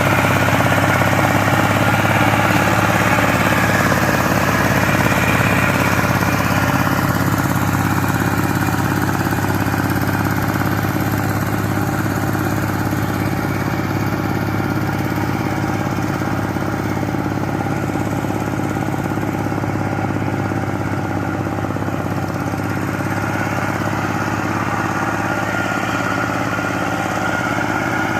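Power tiller engine running steadily at an even pitch.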